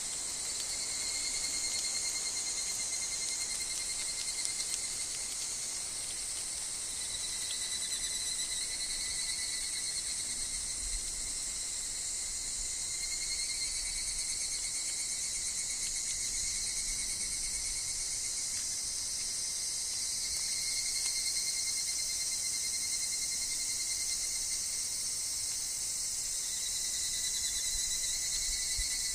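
Chorus of higurashi (evening cicadas) singing in a forest: a continuous high shrill with steady ringing tones underneath that waver slightly in pitch.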